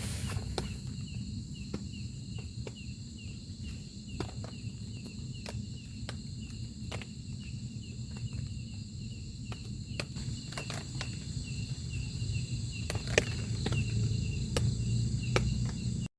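Insects chirping steadily outdoors, one chirp repeating two or three times a second over higher steady trilling, with a low rumble underneath and scattered sharp ticks, like drips, throughout. The sound cuts off abruptly at the end.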